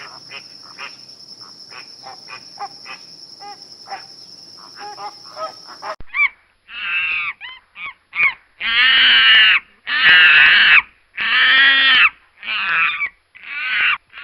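A steady high insect trill with small scattered calls, then after a sudden cut a large bird calling loudly, about eight calls in a row, each under a second long.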